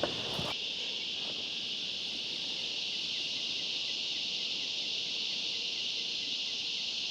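Insects calling in a steady, unbroken high-pitched drone, an outdoor insect chorus with no change in pitch or rhythm. A couple of faint knocks just at the start.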